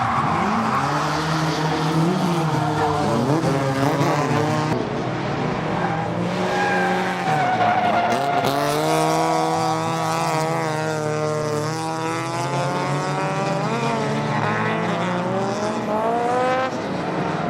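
Naturally aspirated Toyota 4A-GE four-cylinder engine in a drifting Toyota Corona, revving up and falling back again and again through the gears, with tyre squeal from the sliding car.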